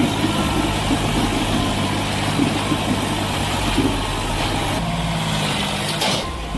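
Tractor engine running steadily, its note shifting slightly about five seconds in, with a brief break near the end.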